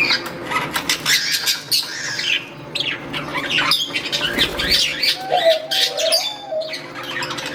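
Budgerigars chirping and chattering, with a lower wavering call joining about five seconds in.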